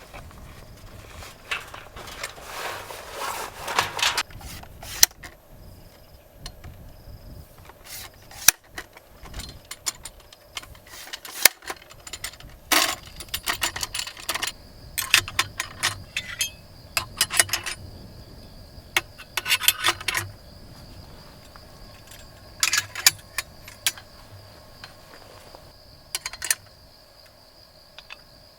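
Light clinks, taps and rustles of small hard objects being handled, coming in irregular clusters. From about halfway a steady, high cricket trill runs underneath.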